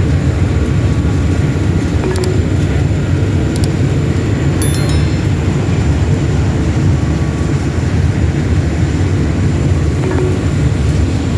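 Passenger ferry's engines running: a loud, steady low rumble, with a few faint high ticks a few seconds in.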